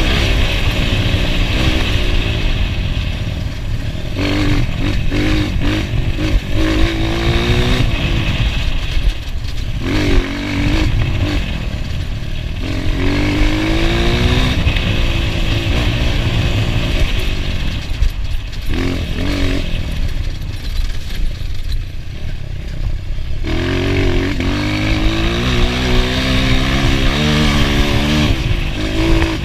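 Enduro motorcycle engine under hard throttle off-road, its pitch climbing in repeated runs through the gears and dropping back, easing off for a few seconds in the middle, with clattering knocks from the bike over rough ground.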